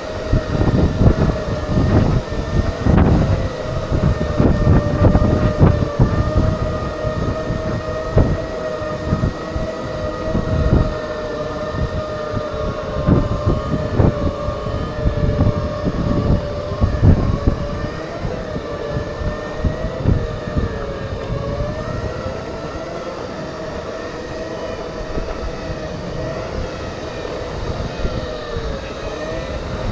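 Segway's electric drive motors whining, a steady pitch that drifts up and down a little with speed, with wind buffeting the microphone as it rides.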